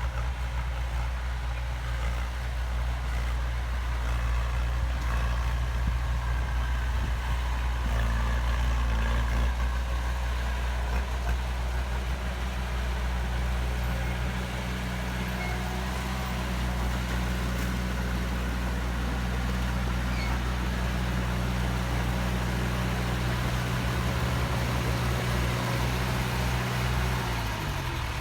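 Heavy diesel engine of earthmoving machinery running steadily, its note falling just before the end.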